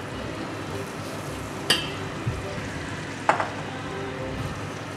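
Chestnuts, onion and leek sizzling in butter and olive oil in a steel pot as they are stirred with a spatula. Two sharp clinks of the spatula against the pot stand out, about a second and a half apart.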